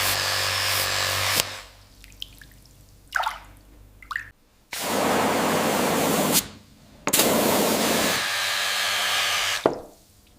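Loud, steady hissing noise, like a jet of air or spray, switched on and off in three bursts of about one and a half to two and a half seconds. A few short squeaks come in the first gap.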